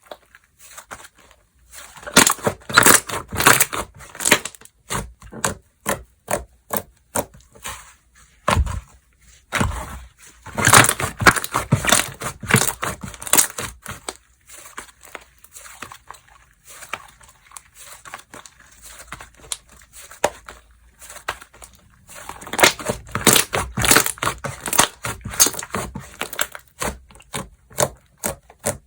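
Slime being squished, poked and stretched by hand, making many sticky clicks and pops that come thick and fast in three busier spells.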